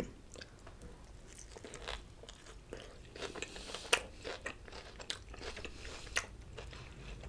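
A person biting into and chewing a chicken gyro wrapped in a flour tortilla, close to the microphone: a scattered run of small crunches and mouth clicks.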